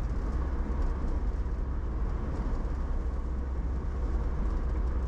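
A car driving at steady speed: constant low road and tyre rumble with engine noise, heard from inside the cabin.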